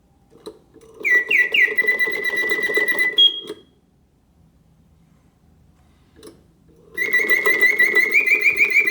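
Karl Griesbaum double singing birdcage's bellows-driven whistle singing in pause mode: a click, a phrase of rising chirps settling into a held whistle, a pause of about three seconds, then another click and the song starting again with fast warbling trills. The clean pauses are, in the restorer's words, a great indication that the bellows and mechanism are in excellent shape.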